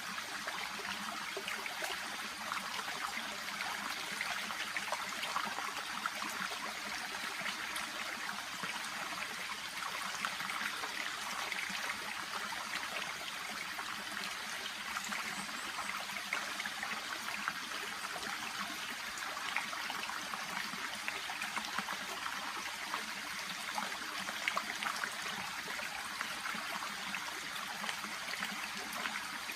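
A small shallow brook babbling steadily, a continuous rush of water with many tiny trickles and splashes.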